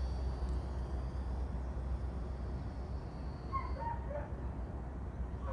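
Outdoor ambience: a steady low rumble, a faint high whine that stops about four seconds in, and a few short high yelps around the same time.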